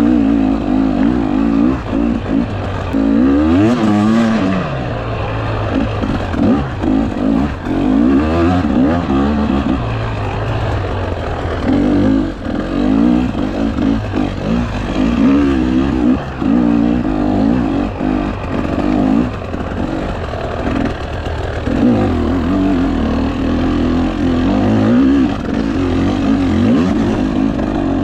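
Dirt bike engine revving up and down as the bike is ridden along a trail, the pitch rising and falling with repeated throttle blips and short lifts off the throttle.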